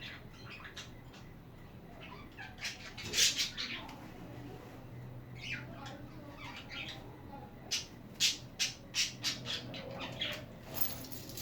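Pet budgerigars chirping and squawking in short, scattered calls. The loudest squawk comes about three seconds in, and there is a quick run of sharp chirps in the second half.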